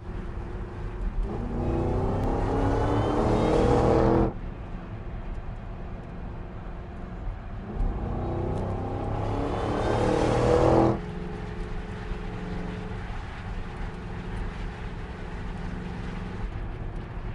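2011 Ford Shelby GT500's supercharged 5.4-litre V8 accelerating hard twice, its pitch rising for about three seconds each time before cutting off abruptly. Between and after the runs it drones steadily at an even, lower note.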